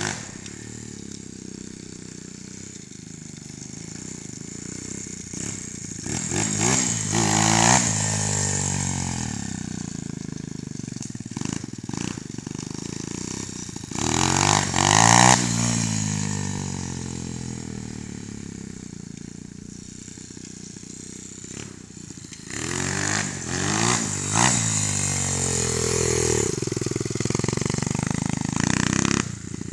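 Coolster Speedmax 125cc four-stroke pit bike engine revving hard and easing off in three runs, its pitch climbing and falling each time, with a lower running sound in between. The loudest run comes about halfway through.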